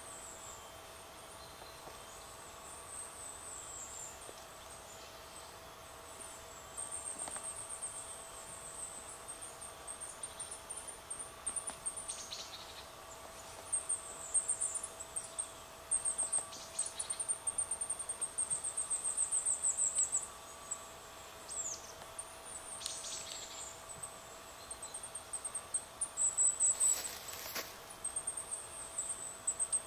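Small birds calling in woodland: very high, rapid chirps and trills in irregular runs, with a few short falling calls, growing busier from several seconds in. A faint steady hum sits beneath.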